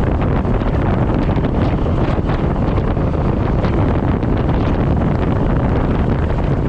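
Suzuki M50 V-twin motorcycle on the move: steady wind rush over the microphone with the engine and road noise running underneath.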